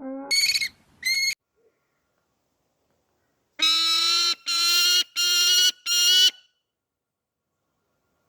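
A raptor calling: a short call, then two brief shrill high-pitched calls, and after a pause of about two seconds four longer calls of steady pitch, one after another.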